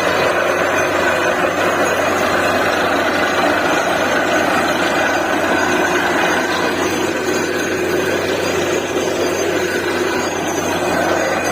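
Truck-mounted DTH borewell drilling rig running steadily, an even, loud engine noise with no pauses.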